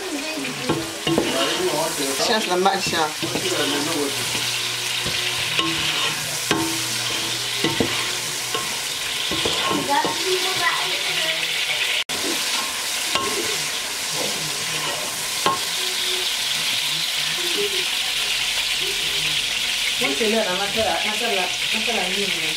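Food frying and sizzling steadily in a pot, stirred and scraped with a wooden spoon.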